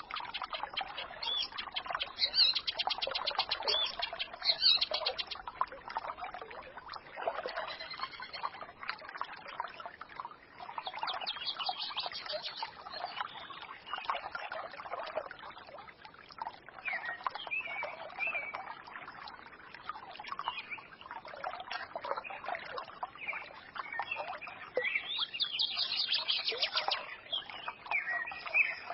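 Small forest stream babbling steadily, with songbirds chirping and twittering over it, including several bursts of rapid trills.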